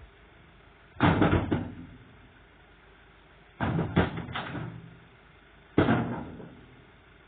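Three loud, heavy bangs: one about a second in, a cluster of several strikes around four seconds in, and one near six seconds, each dying away quickly.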